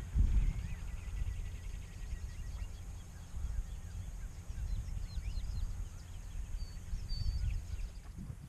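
Small birds chirping and twittering in many short, high calls, over a low, uneven rumble.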